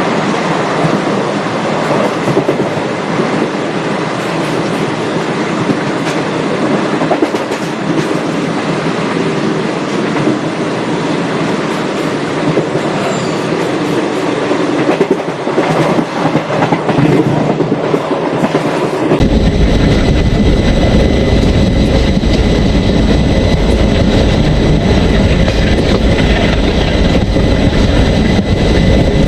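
Express passenger train running on the rails, a steady rumble of wheels on track. About two-thirds of the way through, the sound changes abruptly to a louder, deeper rumble.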